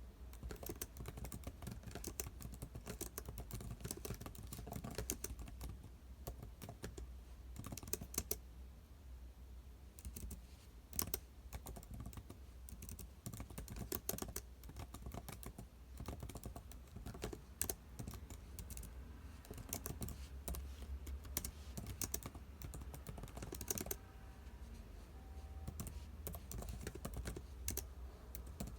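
Typing on a computer keyboard: irregular runs of key clicks broken by short pauses, with a few sharper, louder strokes, over a faint low hum.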